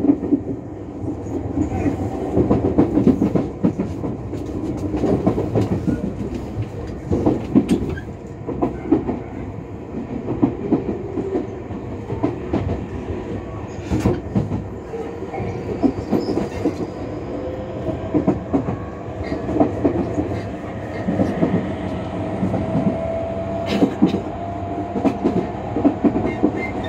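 Commuter electric train running at speed, heard from inside the car: a steady rumble with wheels clattering and knocking over the rail joints. In the second half a faint whine rises slowly in pitch.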